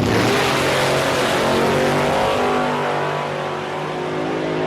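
Race car engine running loud under load, with a dense buzz of harmonics and a slight easing in pitch and level over the last couple of seconds.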